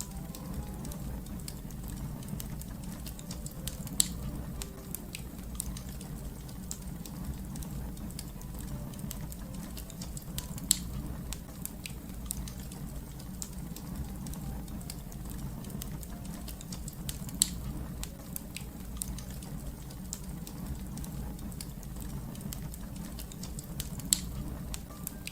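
Wood fire crackling: a steady low rumble under many small crackles, with four louder pops spaced about six to seven seconds apart.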